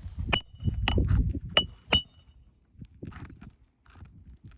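Four sharp metal-on-metal strikes in quick succession, each with a short bright ring, in the first two seconds: metal hand tools at work prying up roofing shingles and their nails.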